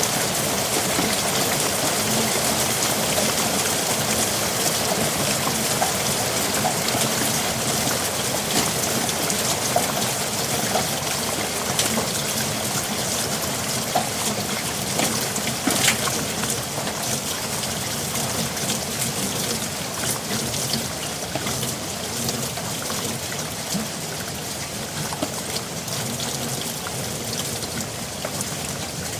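Steady rain falling, a dense even hiss with scattered louder individual drops ticking now and then, easing slightly toward the end.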